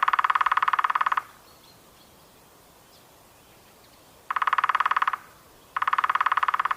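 A frog giving three rapid pulsed trills: one about a second and a half long at the start, then two shorter ones near the end.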